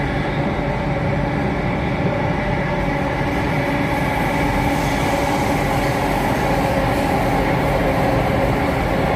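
Inside the cabin of an Alstom Metropolis C830 driverless metro train running at steady speed: rumble from the wheels and running gear, with several steady whining tones from the electric drive.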